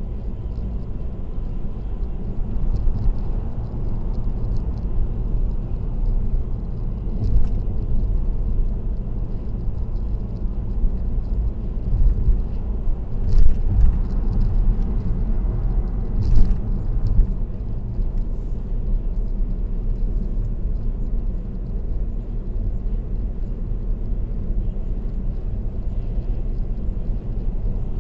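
Car driving at expressway speed: steady low road and tyre rumble with engine noise, broken by a few short bumps over the road surface.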